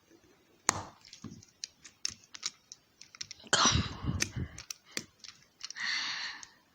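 Small plastic clicks and taps from a toy train engine's side rods and wheels being fitted by hand, with a louder scraping rattle about halfway through and a short hiss near the end.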